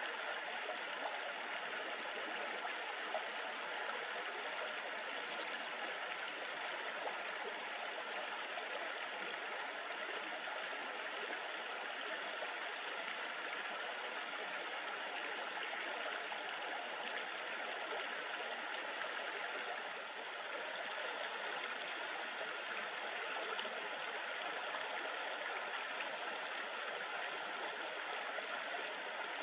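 River water babbling steadily over a shallow streambed, with a few faint, brief high chirps from small birds.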